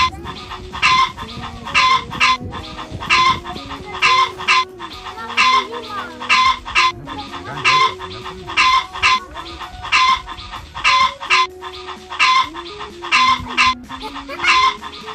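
Chickens clucking in short, loud calls repeated all through, often in pairs, over a quiet simple melody of held notes.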